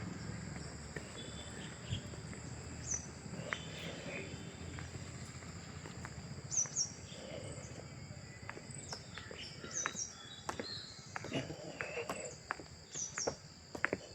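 Insects droning in two steady high-pitched tones, with short bird chirps scattered through and a string of sharp taps and clicks in the second half.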